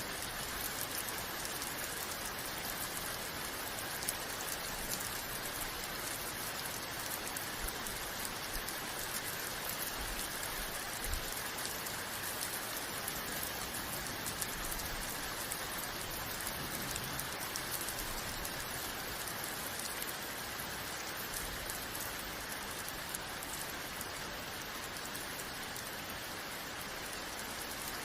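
Steady rain falling, with a dense patter of drops striking a surface and a few slightly louder drops now and then.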